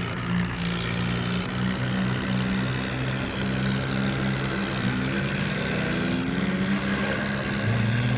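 An engine-like motor running steadily, a low droning hum whose pitch wavers slightly and drops a step near the end.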